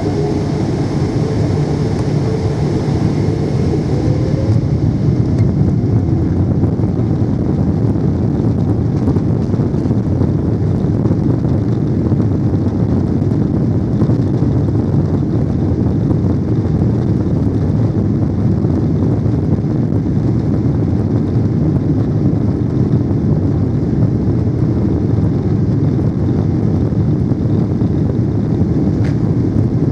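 Boeing 777-300 jet engines and airflow heard inside the passenger cabin as a loud, steady rumble, with a faint rising engine tone over the first few seconds.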